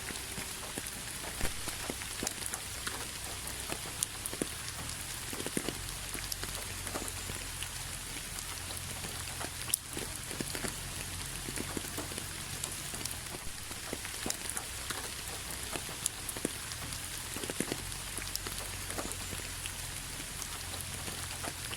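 Steady rain with many individual drops tapping close by, sharp and irregular over an even hiss.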